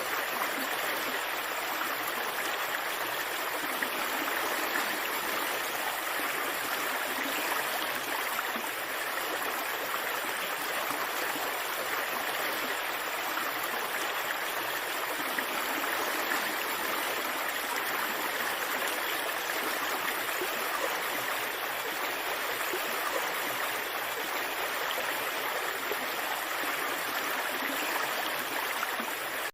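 Rushing stream water, a steady, even rush with no breaks.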